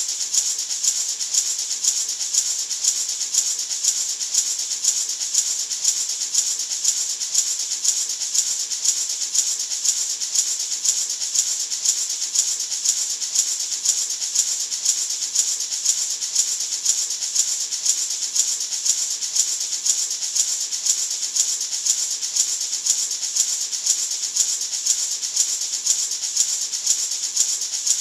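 Natural gourd maraca shaken continuously in a steady, even rhythm: a bright rattling hiss of seeds against the gourd shell.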